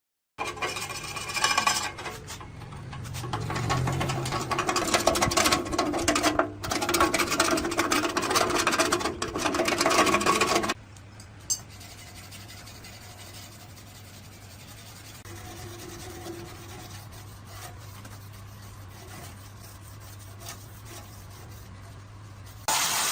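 Hand scraping or filing on a part, in continuous rubbing strokes for about ten seconds with one brief break, then it stops. A low steady hum carries on quietly afterwards.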